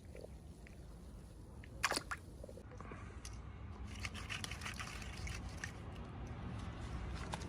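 Quiet handling noises: small clicks and soft rustles, with one sharper click about two seconds in, coming more often from about three seconds on.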